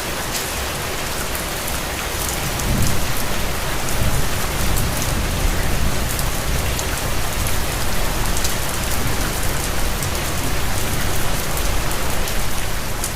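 Steady rain falling, a dense even hiss with many small drop impacts, and a low rumble underneath that swells from about two and a half seconds in.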